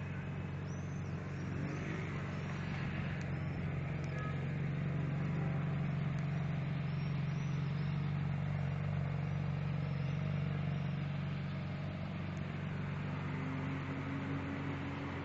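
Ferrari 458 Italia's 4.5-litre V8 running at a steady idle, a little louder for several seconds in the middle, with an added steady higher tone near the end.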